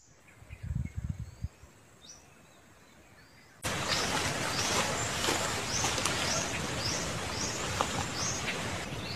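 Wild birds chirping outdoors. The first seconds are quiet apart from a few dull thumps and faint chirps. About three and a half seconds in, a louder steady hiss sets in, and over it a bird repeats a short, high, falling chirp about twice a second.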